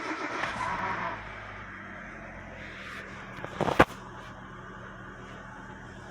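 Hyundai Accent 1.3 four-cylinder petrol engine just after starting, running fast for about a second before settling to a steady idle. There is a single loud knock about three and a half seconds in.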